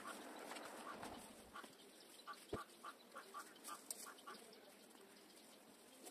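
A bird calling faintly in a quick series of short, same-pitched notes, about four a second, for a few seconds, with one sharp click in the middle. Otherwise near silence.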